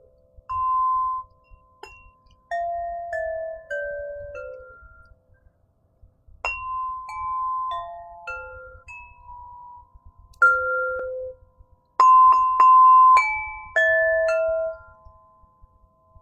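Crystal harp played in slow phrases of single bell-like notes, each struck clearly and ringing on, mostly stepping down in pitch; the loudest notes come near the end, with one note struck several times quickly.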